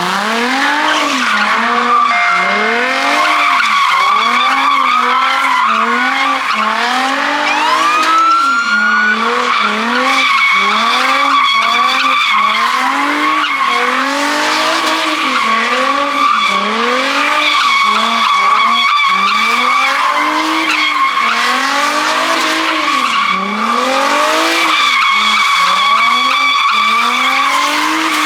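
A car doing donuts: its tyres squeal steadily the whole time. The engine revs up at the start, then rises and falls over and over in an even cycle, a little slower than once a second, as the throttle is worked through the spin.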